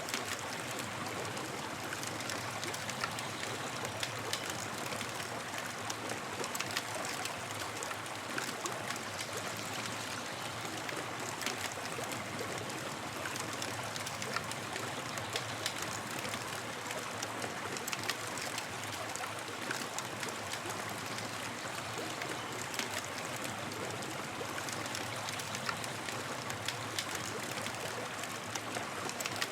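Campfire burning with a steady hiss and frequent small sharp crackles and pops throughout.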